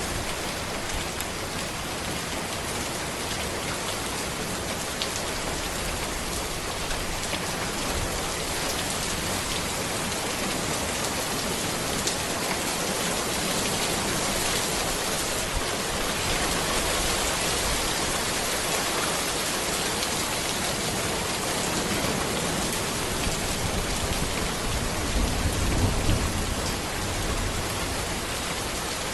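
Steady rain falling on a road and trees: an even hiss of rain with no let-up. A low rumble swells briefly near the end.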